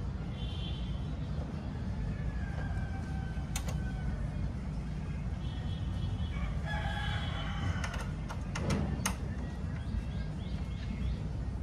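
A rooster crowing, strongest about six to seven seconds in, over a steady low hum, with a few sharp clicks near the middle.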